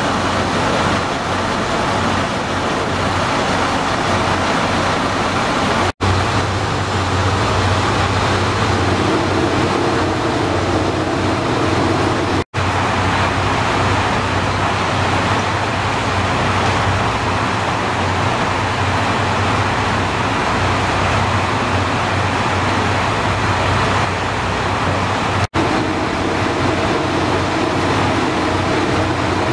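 Steady, loud rumble of a train running, in several short stretches separated by abrupt cuts.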